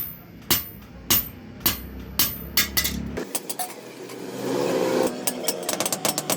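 A blacksmith's hammer striking metal on an anvil, about two ringing blows a second. After about three seconds the sound changes abruptly to a rising machine sound, which gives way near the end to rapid, even striking several times a second.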